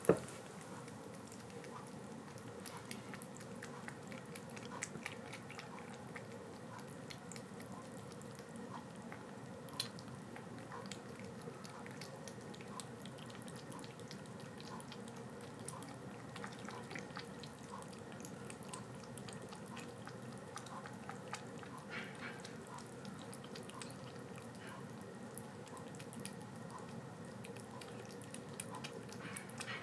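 A kitten suckling milk from a baby bottle: a run of small, wet sucking and smacking clicks over a faint steady hum.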